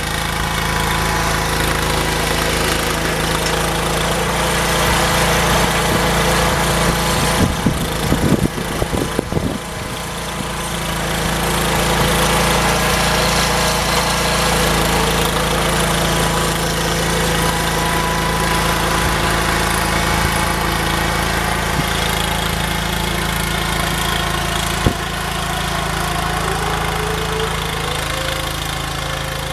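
Small tractor engine running steadily under way. A few seconds of rough knocking and rumbling comes about eight seconds in.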